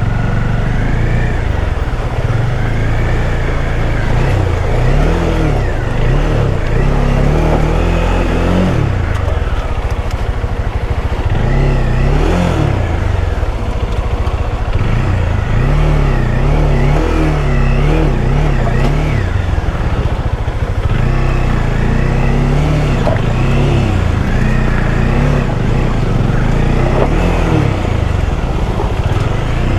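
Bajaj Dominar 400's single-cylinder engine running while riding off-road, its pitch rising and falling over and over as the throttle is opened and closed.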